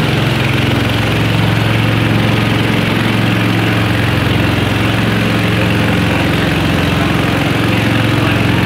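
A small river boat's engine running steadily at an even speed, with a constant low hum.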